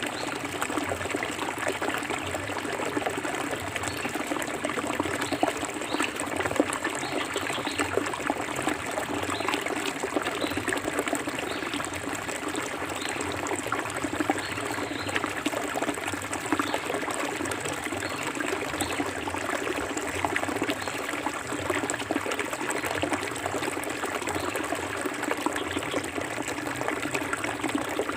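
Forest river flowing: a steady rush of water with many small gurgles and splashes throughout.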